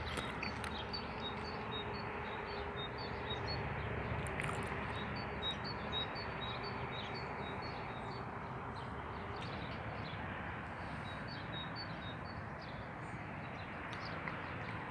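A small bird sings repeated short, high notes, two to three a second, in several runs with short pauses between them, over a steady outdoor background hiss.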